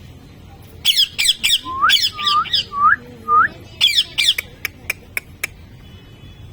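Parrot squawking in quick harsh bursts, then giving four short rising whistles, then more squawks, followed by a few sharp clicks.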